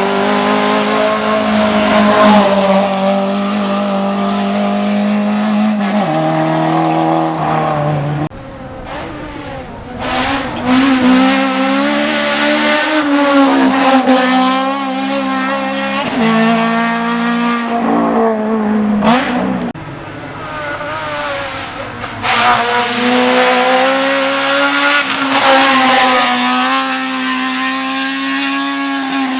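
Race car engines running hard on a hill climb, held at high revs with sudden pitch jumps as gears change, over about half a minute.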